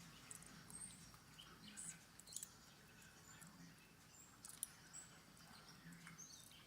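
Faint, scattered short bird chirps and ticks over a quiet outdoor background.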